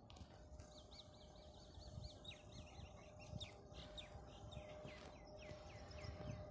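A bird singing faintly: a long run of short, quickly repeated high notes, a few each second, that stops about a second before the end.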